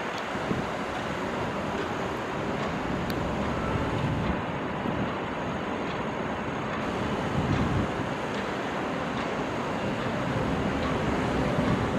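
Heavy diesel machinery running steadily, the working sound of a crawler excavator and a farm tractor, with a few faint clicks over the engine noise.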